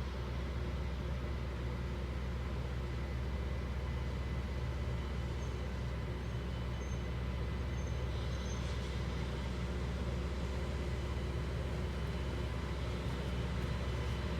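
Loram rail grinder train running steadily past: a deep, even diesel drone with faint steady whining tones above it.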